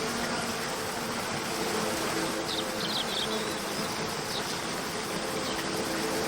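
Steady rush of a waterfall under a soft, sustained background music drone, with a few brief high chirps about halfway through.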